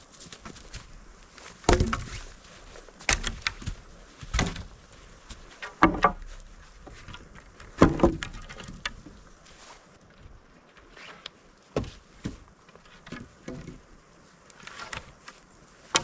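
A series of irregular knocks and crunches, several seconds apart, over a faint steady background; the loudest come about two and eight seconds in.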